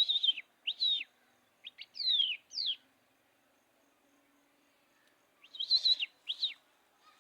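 A songbird singing short phrases of clear whistled notes, each an arched or falling sweep. It sings in three bursts, the first two close together near the start and the last near the end, with a pause of a few seconds between.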